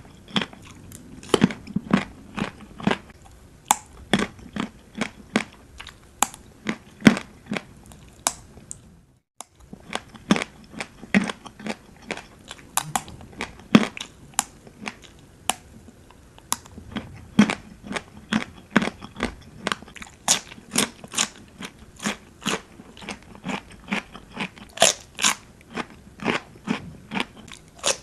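A person biting and chewing crisp, crunchy food close to the microphone: a quick run of sharp crunches, several a second, broken by a brief total silence about nine seconds in.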